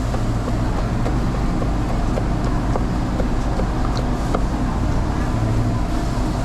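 A steady low mechanical rumble, such as a motor or fan running, with a few faint light clicks on top.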